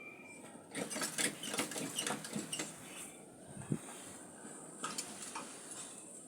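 Irregular clattering and scraping of hard objects being handled and knocked together: a busy run of clicks and rattles in the first half, then a single knock and a few lighter clicks.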